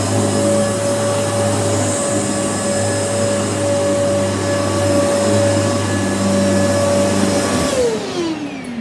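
Kenmore upright vacuum cleaner running steadily with a high motor whine. Near the end it is switched off, and the whine falls in pitch as the motor spins down.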